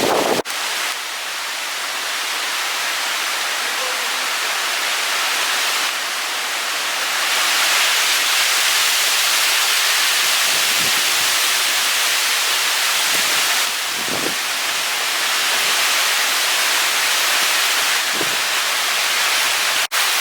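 Strong storm wind rushing through trees with rain mixed in: a loud, steady hiss that swells and eases, with a couple of brief low thumps of wind on the microphone.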